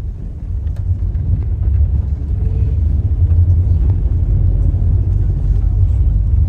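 Low, steady rumble of a vehicle's engine and road noise heard from inside the moving vehicle's cabin, growing slightly louder over the first few seconds.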